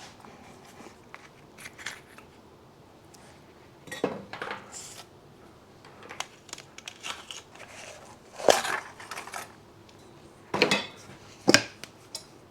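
Metal motorcycle fork parts and tools clinking and knocking as they are handled and set down, a few separate clanks with the loudest in the second half.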